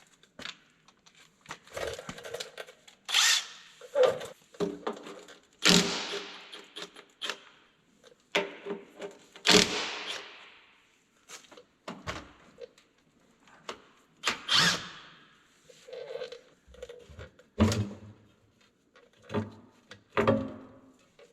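A handheld power tool run in short bursts, with knocks and clanks of metal in between, as the cover plate over a skid steer's drive-chain adjuster is unbolted.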